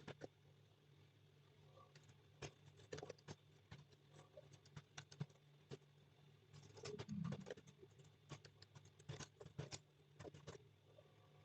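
Computer keyboard keys clicking faintly in irregular bursts of typing, over a low steady hum.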